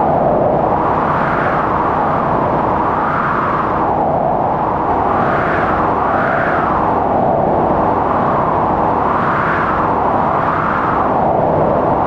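Strong blizzard wind howling, its pitch rising and falling with each gust about once a second over a steady low rush.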